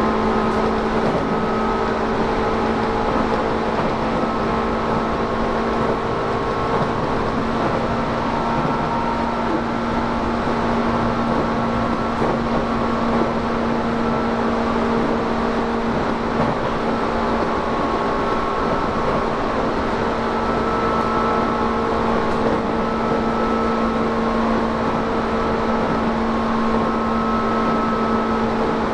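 Interior running noise of a Tobu 10000 series electric train heard from inside a motor car: a steady rumble of wheels on rail with a few constant humming tones from the running gear, the train holding an even speed.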